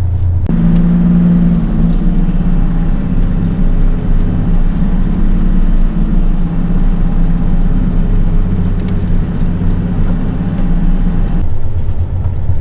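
Semi truck's diesel engine running under load while driving, heard from inside the cab; its note steps up about half a second in and drops back near the end.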